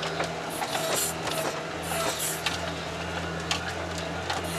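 Cabin of the Veter articulated all-terrain vehicle driving slowly through snow: its 1.5-litre engine drones steadily at low revs, with frequent clicks and knocks from the body and running gear.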